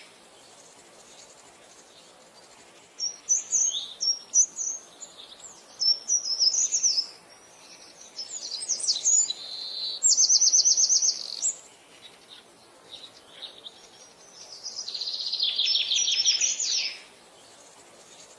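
Wild birds singing: scattered high chirps and whistles, with a rapid, evenly pulsed trill about ten seconds in and a longer buzzy trill near the end.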